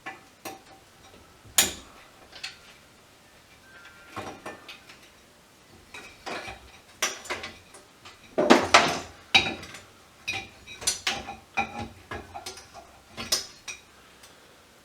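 Small metal parts and hand tools clinking and clattering at an irregular pace while a variable frequency drive is taken apart for scrap, with a busier run of knocks and rattles about halfway through.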